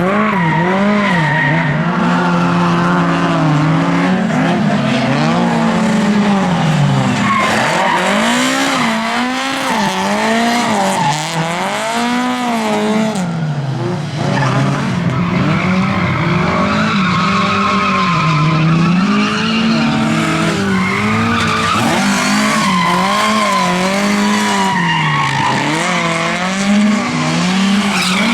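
Lada race car engines revving hard, the pitch climbing and dropping again and again through gear changes and corners, at times two cars at once.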